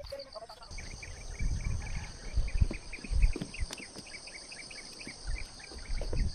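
Crickets and other night insects trilling steadily at a high pitch, with a fast run of short chirps starting about a second in. Irregular low thumps and rumbles come and go over it and are the loudest part.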